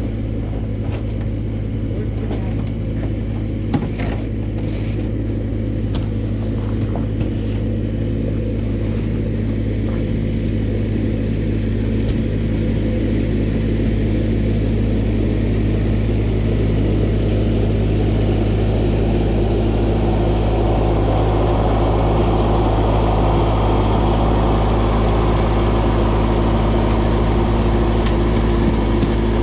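A vehicle engine running steadily at idle, with a few light knocks in the first several seconds and a rushing noise that builds from about twenty seconds in.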